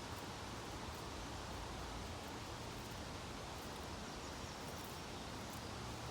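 Steady outdoor background ambience at a backyard bird feeder: an even hiss with a low rumble underneath and no distinct bird calls.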